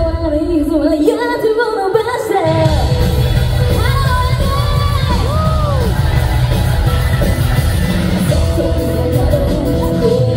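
Live J-rock band with a female lead singer. The singer carries the melody throughout, the drums and bass drop out briefly, then the full band comes back in about two and a half seconds in.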